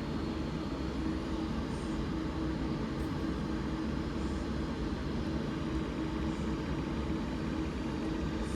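Class 397 electric multiple unit standing at the platform, its onboard equipment giving a steady hum.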